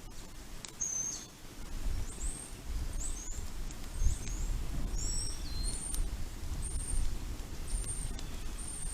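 A songbird chirping: short, very high calls, first as quick rising and falling pairs, then from about six seconds in as single short level notes, under a steady low rumble.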